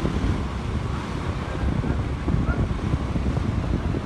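Wind buffeting the microphone in a steady low rumble, over the noise of a moving vehicle.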